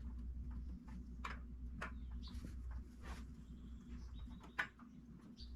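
Small irregular clicks, scrapes and squeaks of a spin-on oil filter being turned by hand against its threaded mount on a motorcycle engine, with one sharper click near the end. The filter is not catching its threads.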